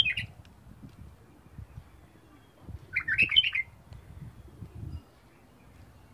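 A bird chirping in short rapid bursts, once at the start and again about three seconds in, over a faint low rumble with soft knocks.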